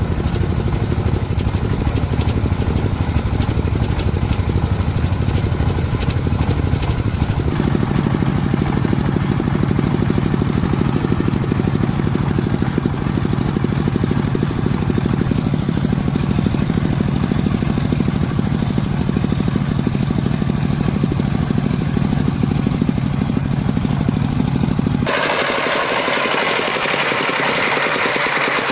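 Farm truck's engine running steadily and loudly. Near the end the sound changes abruptly to a higher, brighter mechanical running with little low end.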